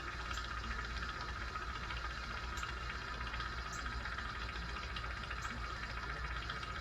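Steady hiss of a jeweler's soldering torch flame heating a hollow chain link to melt the solder in, with a low hum underneath and a few faint ticks.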